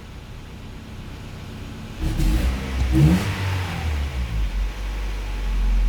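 Car engine running on LPG through a freshly rebuilt Tomasetto AT-09 gas reducer: idling, then revved once about two seconds in, the pitch rising and settling back toward idle.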